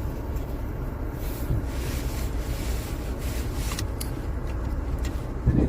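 Wind buffeting the camera microphone: a steady low rumble, with a few faint short clicks mixed in.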